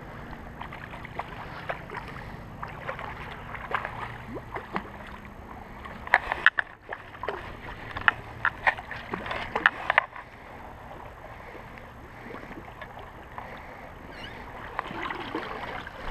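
Shallow feeder stream running, with scattered sharp clicks and knocks, most of them between about six and ten seconds in.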